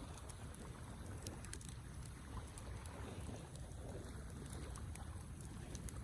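Wood campfire burning, with a steady low rumble and scattered sharp crackles and pops.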